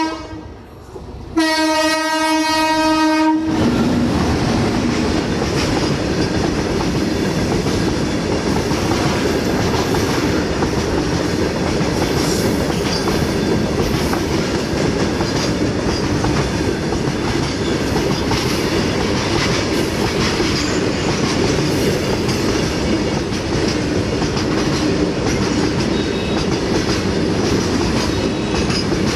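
A freight train's locomotive horn sounds once for about two seconds near the start. Then the train passes close by: a loud, steady noise of the wagons rolling on the rails, with faint repeated clicks.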